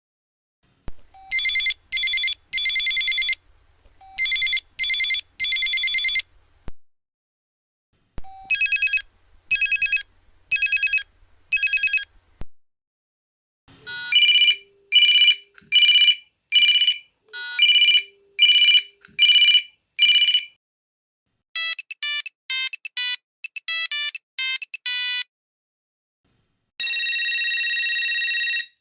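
A series of different telephone ringtones played one after another. First come short trilling rings in quick groups, then a ring in evenly spaced pulses, then a fast run of short beeps, and near the end a steady continuous ring begins.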